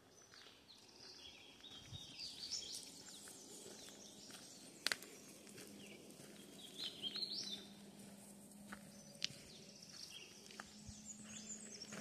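Faint songbird calls and chirps from the woods, coming in short clusters, with a few scattered sharp clicks, the loudest about five seconds in.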